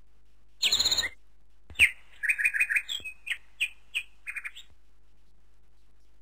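Bird calls: a quick high trill about half a second in, then a run of short, repeated chirps from about two to four and a half seconds.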